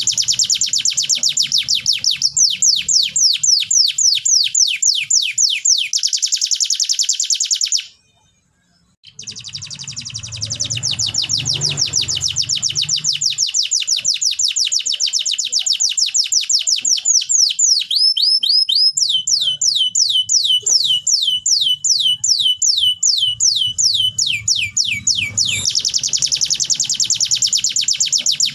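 Canary singing in fast rolling trills, each a rapid run of repeated down-sweeping high notes, switching from one trill to another every few seconds. The song breaks off for about a second about eight seconds in, then resumes.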